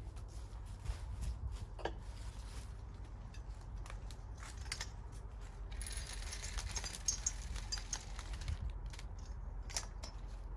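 Handling noises: scattered small clicks and taps, with a rustle of packaging about two-thirds of the way through, over a steady low rumble.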